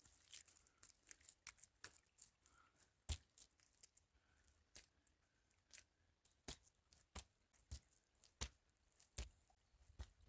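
Faint, irregular sharp knocks and clicks, about a dozen, unevenly spaced, the loudest about three seconds in.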